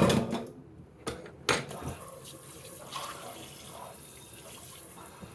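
Kitchen tap running water into a pot of just-boiled eggs in the sink, cooling them. The pot knocks twice in the first second and a half, then the water runs steadily.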